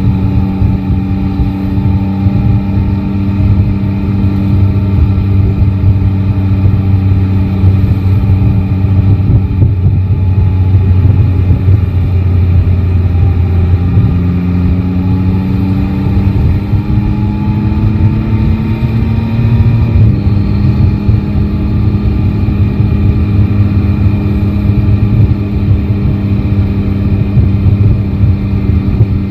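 Yamaha Tracer 9 GT's 890 cc inline three-cylinder engine running under way, heard from the rider's position. It holds a steady pitch at first; about halfway the pitch dips, then climbs as the bike accelerates through a gear and falls sharply about two-thirds in, as on an upshift.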